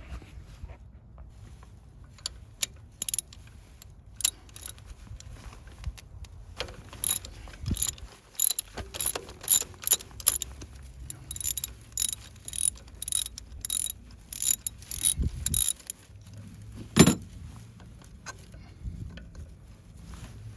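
Socket ratchet clicking in short irregular runs as it works a spark plug socket on a long extension, backing an old spark plug out of a four-cylinder engine; one louder knock near the end.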